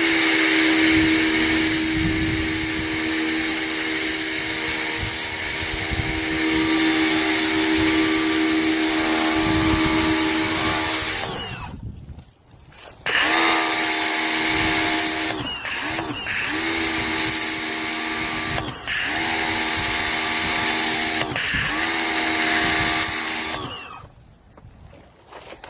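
Sun Joe SPX1000 electric pressure washer running, its motor hum with a hiss over it. It stops about eleven seconds in, starts again a second and a half later, dips briefly in pitch three times, and stops shortly before the end.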